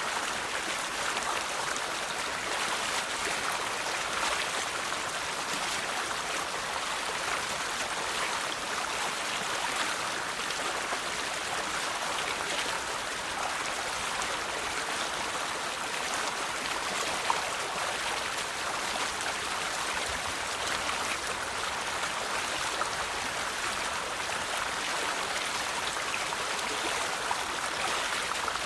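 River water flowing and splashing in a steady rush, with one faint sharp tick a little past halfway.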